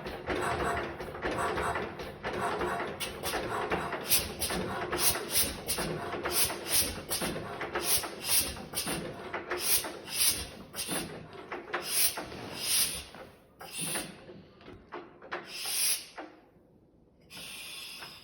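1926 Lister X single-cylinder stationary engine running with a regular beat that slows, the beats spreading out until the engine stops near the end.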